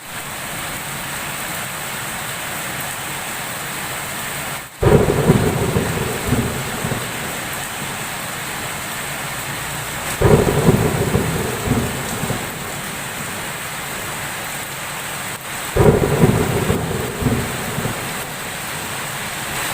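Steady heavy rain with three loud claps of thunder, about five seconds apart, each starting suddenly and rumbling away over a second or two.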